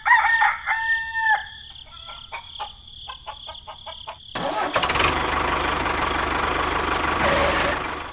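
A rooster crowing once. It is followed by a few seconds of scattered clicks, then an engine starts about halfway through and runs steadily until it cuts off at the end.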